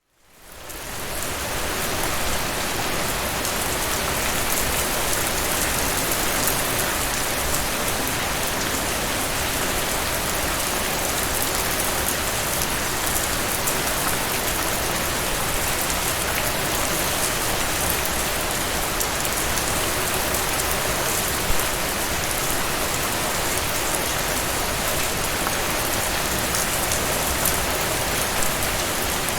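Steady rain falling on a surface, a dense even hiss with many small drop ticks, fading in over the first second or two.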